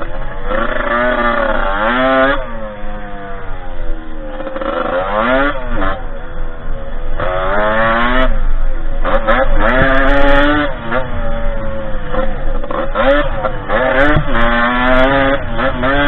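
Derbi 50cc two-stroke engine on a small dirt bike being ridden, its pitch climbing as it revs up, then dropping back, over and over.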